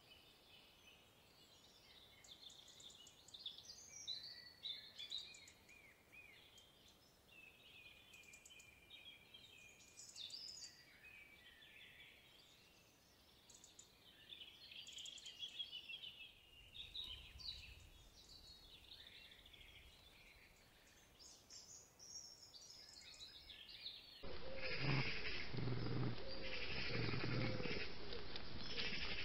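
Woodland birdsong: several birds chirping and warbling in quick, overlapping phrases. About 24 seconds in the sound changes abruptly to a louder, duller recording with background noise, birds and a few short low pitched sounds.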